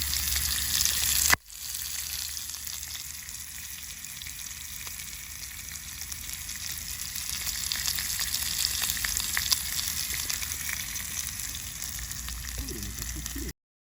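Food sizzling as it cooks: a steady hiss with scattered small crackles. It breaks off briefly about a second and a half in, then carries on.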